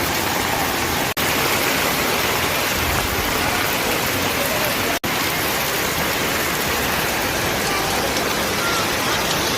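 Heavy rain falling steadily, a dense even hiss, with two momentary dropouts about a second in and about five seconds in.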